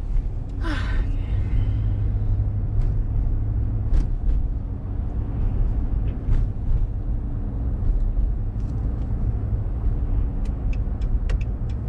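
Pickup truck heard from inside the cab, a steady low rumble of engine and road while it moves slowly in traffic. Near the end comes a run of quick, evenly spaced ticks, about three a second.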